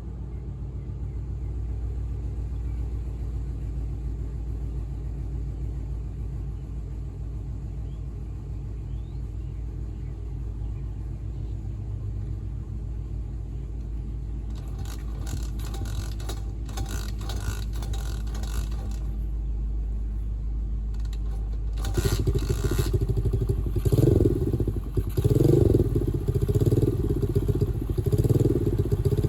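Dirt bike engine running at a steady idle, then revved up about three quarters of the way through and running louder, rising and falling as the bike is ridden.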